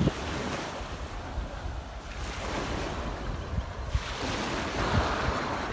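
Surf washing on a beach, with wind gusting on the microphone.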